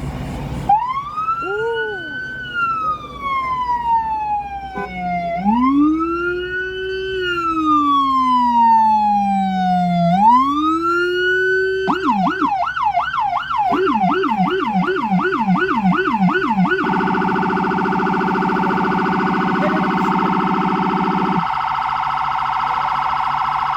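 Police car's electronic siren switched on and stepped through its tones: a slow rising and falling wail, then from about twelve seconds in a fast yelp of about three sweeps a second, then from about seventeen seconds a very rapid warble that stops near the end.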